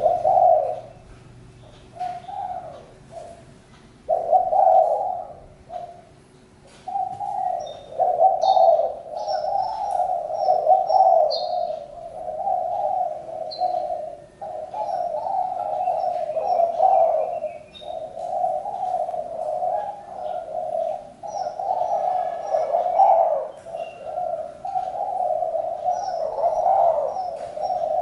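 Spotted doves cooing, sparse at first, then overlapping almost without a break from about four seconds in. Faint high chirps of small birds sound over them.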